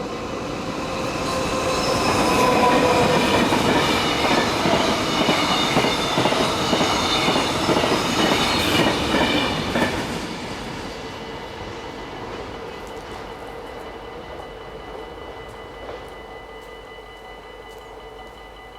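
Arriva Stadler GTW multiple-unit train passing close by at speed, with wheels rumbling over the rails. It is loudest for several seconds, then fades away after about ten seconds. Steady high ringing tones continue throughout, typical of the crossing's warning bells.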